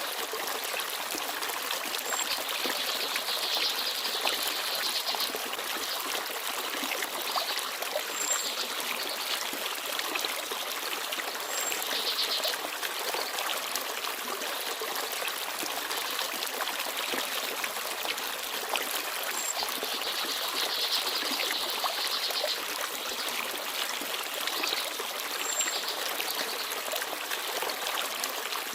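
Forest stream babbling steadily over stones, with small birds giving short, high chirps now and then.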